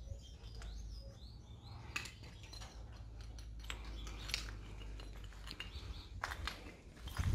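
Small birds chirping in short, high, bending calls, with a few scattered clicks and crunches of footsteps on broken clay roof-tile rubble.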